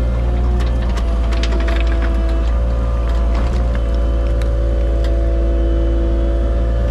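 Compact excavator's diesel engine running steadily under work, a low drone with tones that shift slightly in pitch a few times, and some faint clicks.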